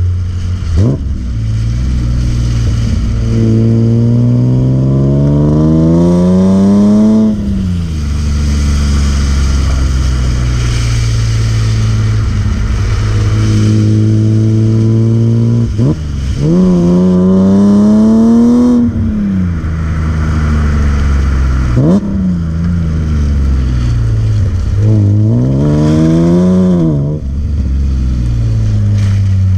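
BMW E36 M3's S50B30 straight-six revving hard in three long climbs, with quick throttle blips between them, while the car is drifted.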